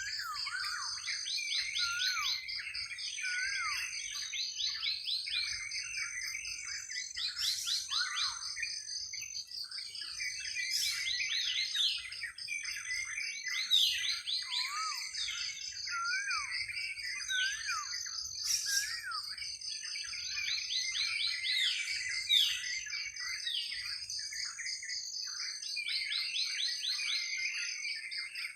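A chorus of several birds chirping and singing, with rapid runs of quick downward-sweeping notes and short rising-and-falling whistles, over a steady high-pitched drone.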